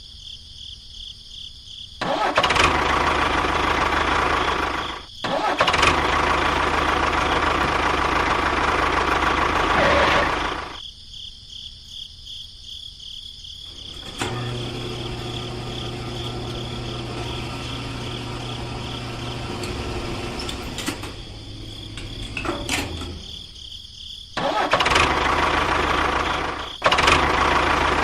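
A small engine or motor running in several stretches, stopping and starting again between them, with a quieter, steadier hum in the middle stretch.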